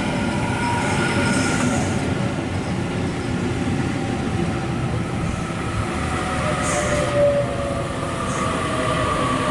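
Sydney Trains B-set (Waratah Series 2) electric suburban train pulling into the platform, its electric whine slowly falling in pitch as it brakes. There is a short hiss about seven seconds in.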